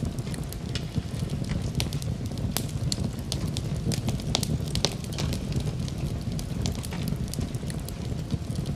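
Fire burning in a fireplace: a steady low rumble of the flames with frequent sharp crackles and pops, a few of them louder.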